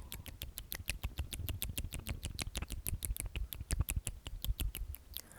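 Rapid, sharp mouth clicks close to the microphone, about eight a second.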